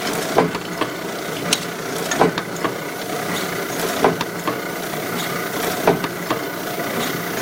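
Kluge 14x22 die-cutting and foiling press running steadily, with a loud knock on each cutting stroke, about one every two seconds, and lighter ticks between. This is the noise the press makes when cutting.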